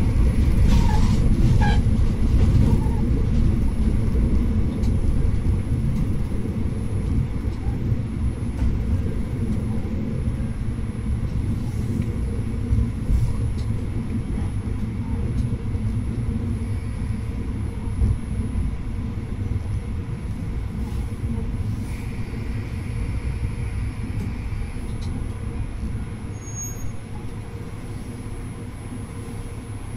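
Diesel railcar running along the line, heard from the front of the train: a steady low rumble of engine and wheels on rail that slowly grows quieter. A faint high tone rises above it for a few seconds past the two-thirds mark.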